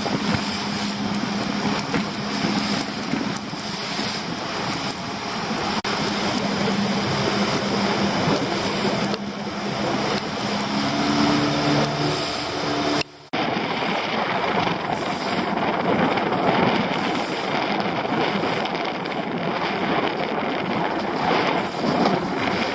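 Strong wind buffeting the microphone on an open boat, a steady rushing noise, with a low steady hum under it for the first half. The sound drops out for a moment about halfway through.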